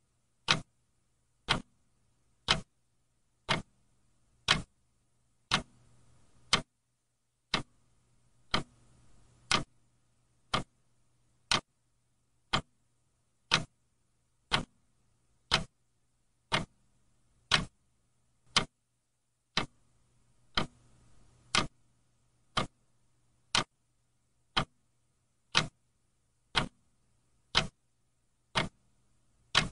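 Clock ticking steadily: one sharp tick about every second.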